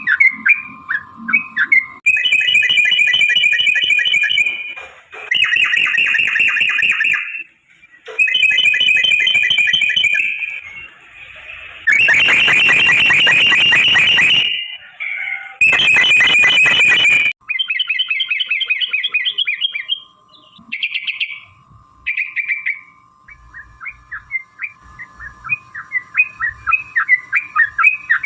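Yellow-vented bulbul (trucuk) singing: long rapid rattling trills of two to three seconds each, repeated several times with short gaps, then a run of short quick chirps near the end. A steady thin high tone runs underneath in the last third.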